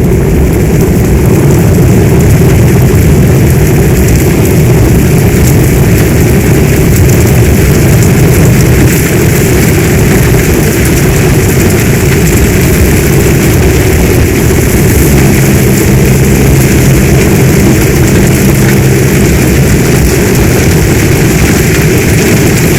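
Heavy storm rain, a loud steady rushing with a deep continuous rumble underneath. About fifteen seconds in, a low droning hum joins it.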